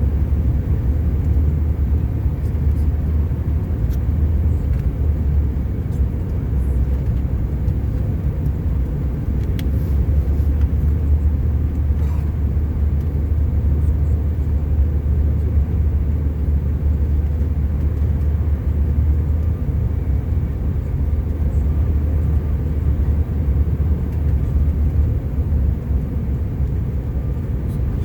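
Steady low drone inside the cabin of a Bombardier CRJ900 regional jet: engine and airflow rumble heard from a passenger seat.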